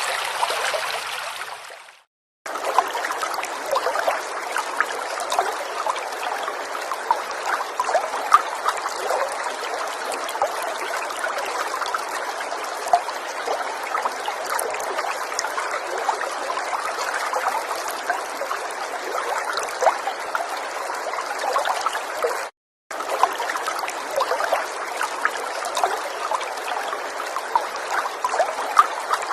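River water running and trickling steadily, flecked with small splashes. About two seconds in the sound fades away to a brief silence and then comes straight back, and it drops out once more for a moment about 22 seconds in.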